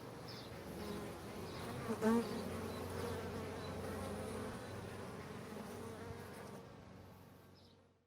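Honey bees buzzing at a hive in a steady hum, with a brief louder pass about two seconds in, fading out near the end.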